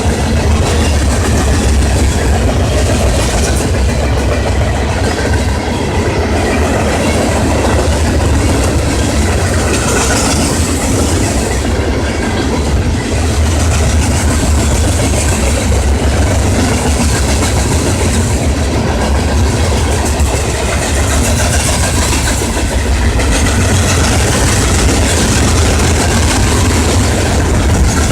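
A train rolling past: a steady, loud rumble of railroad cars and wheel noise on the rails that goes on without a break.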